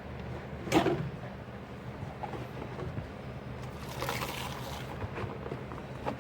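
Hand washing dishes at a sink: a sharp clank of dishware knocking together about a second in, then water splashing and rushing about four seconds in, over a steady low hum.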